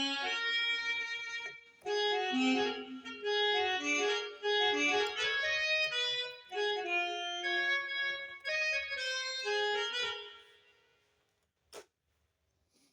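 Roland Juno-Gi synthesizer being played through its output: a run of held chords and melody notes, the instrument producing sound again after its no-sound fault was repaired. The notes fade out about two-thirds of the way through, followed by a single short click.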